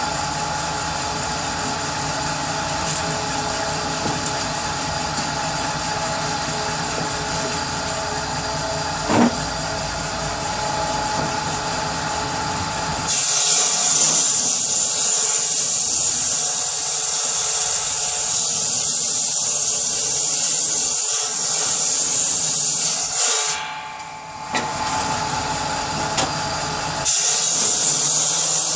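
Power saw running steadily, then a loud hissing noise from about 13 seconds in that breaks off briefly and returns near the end, as wood is cut for kindling.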